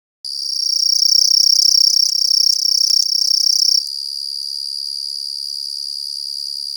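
An insect's continuous high-pitched trill, loudest for the first few seconds, then dropping to a steadier, quieter level about four seconds in.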